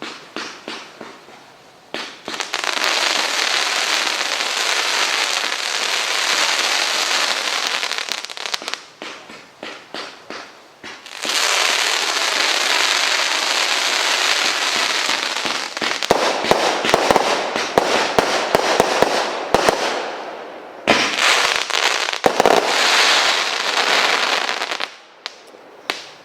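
Consumer firework cake firing: scattered sharp cracks, then three long stretches of dense crackling from many stars at once, with a gap of separate cracks between the first two.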